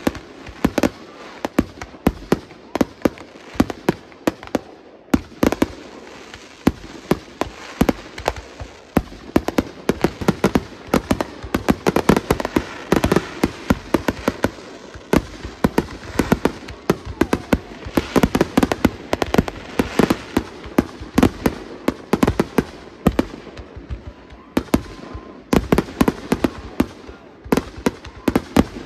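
Aerial fireworks display: a dense barrage of shell bursts and crackling reports, several bangs a second, with a brief lull about four seconds in.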